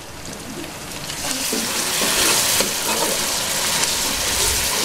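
Onions and ginger-garlic paste sizzling in hot ghee in a metal karahi while a ladle stirs them. The sizzle swells about a second in and then holds steady.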